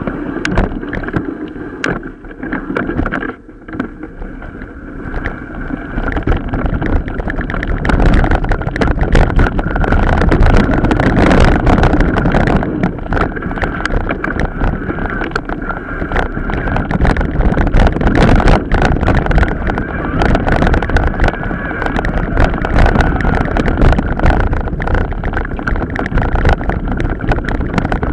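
Mountain bike riding over a rough off-road track, with rumbling noise and a constant clatter of knocks and rattles. It eases briefly about three seconds in and grows louder from about eight seconds in.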